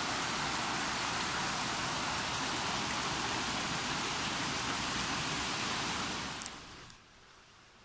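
Steady rush of a waterfall's falling water, fading out about six seconds in.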